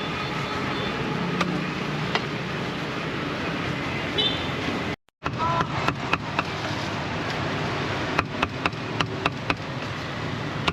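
Busy market background: chatter and a steady hum of traffic. About halfway through the sound briefly cuts out, and near the end there is a run of sharp knocks, about three a second.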